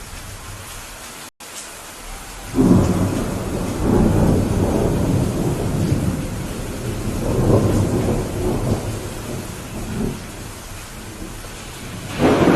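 Steady rain with thunder. The sound cuts out for an instant about a second in, then a loud thunderclap breaks at about two and a half seconds and rolls on in waves for several seconds. Another rumble of thunder comes near the end.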